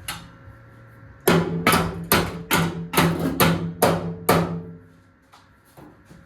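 Eight evenly paced hammer blows on sheet-metal body panel, a little over two a second, each strike ringing the metal.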